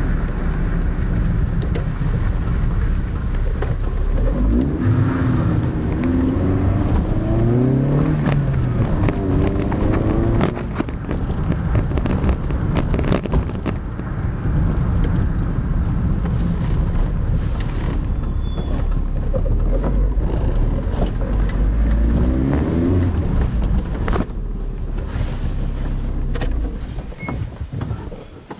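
Seat Ibiza 1.2i System Porsche four-cylinder engine running through an aftermarket cat-back exhaust and muffler, its pitch rising and falling several times as it is revved, with a spell of sharp crackles around the middle. It gets quieter near the end.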